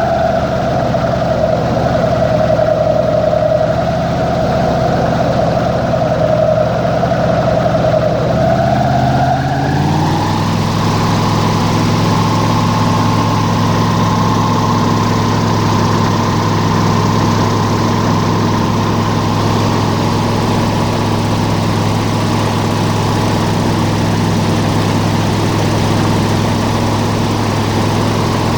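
Airboat engine and propeller running steadily. About ten seconds in, it revs up to a higher speed and holds there.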